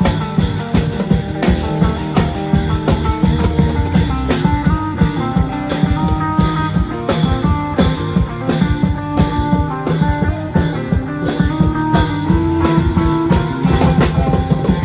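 Thai klong yao long-drum band playing a fast, dense rhythm, with a plucked-string melody over the drums.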